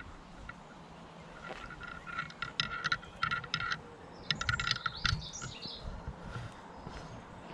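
A small songbird singing two quick bursts of rapid repeated notes, one about two seconds in and a shorter one about four seconds in.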